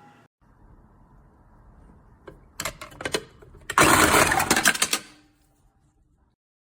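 Black+Decker HC300BC 3-cup food chopper run briefly on its pulse, about a second and a half of motor and blade noise, loud and rattling. A few sharp clicks come just before it.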